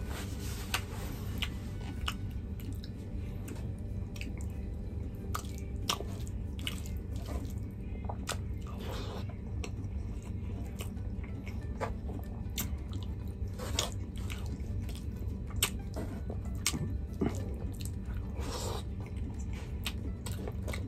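Close-up chewing and mouth sounds of a person eating chicken curry and rice by hand, with scattered short wet clicks and smacks. A steady low hum runs underneath.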